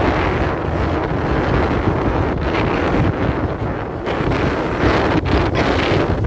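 Strong wind buffeting the microphone in gusts, rising and falling.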